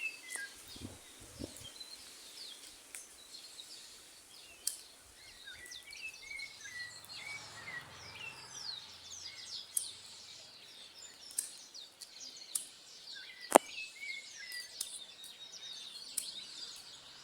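Birds chirping over and over with many short, quick calls, over a faint outdoor hiss. Scattered sharp clicks or snaps cut in, the loudest a little past halfway through.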